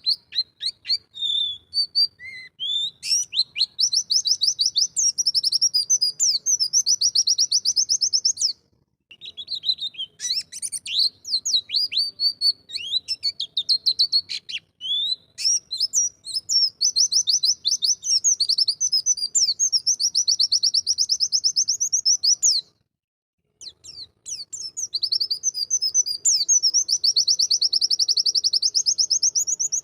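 White-eye (pleci) singing: long, fast, high-pitched trilled phrases in three bouts, with short breaks about 9 and 23 seconds in.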